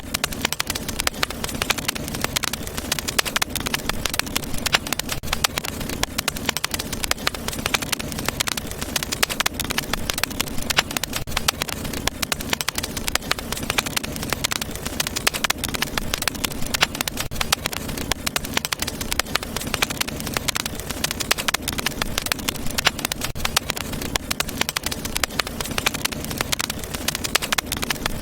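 Wood fire burning in a fireplace, crackling with a dense stream of small pops over a steady low rumble of the flames.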